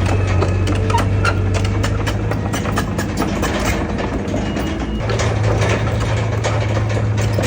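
Heavy diesel engine of earthmoving machinery running steadily, with frequent metallic clanks and rattles over it; the engine hum grows stronger about five seconds in.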